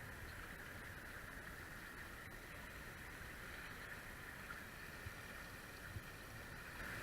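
Steady wash of water and wind aboard a Hobie Cat catamaran under sail, running downwind at an easy pace.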